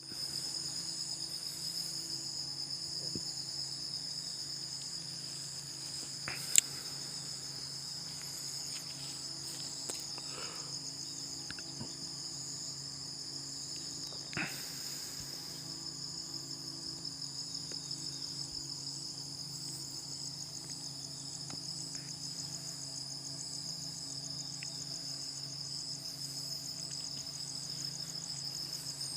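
Insects chirring in one continuous, high, finely pulsing trill, over a faint low hum. A sharp click about six seconds in is the loudest sound, with a softer one about fourteen seconds in.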